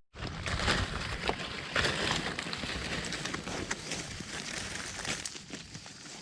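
Crunching and rustling of footsteps through dry leaf litter and undergrowth, with many small crackles.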